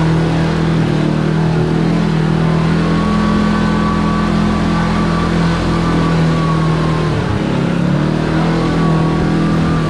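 Side-by-side UTV engine running steadily while driving along a trail, with a brief dip in the engine note about seven seconds in.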